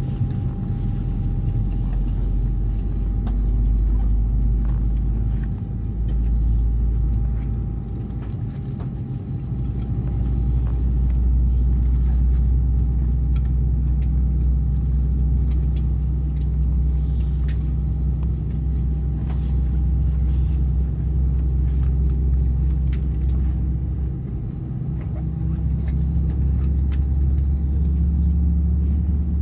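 Airbus A320 cabin noise: a low rumble that swells and dips, with a thin steady whine over it and scattered small clicks and rattles.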